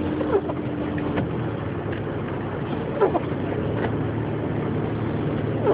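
Steady engine and tyre drone of a Toyota 4Runner heard from inside the cabin as it drives slowly through snow, with a short steady tone in the first second and a few brief higher blips over it.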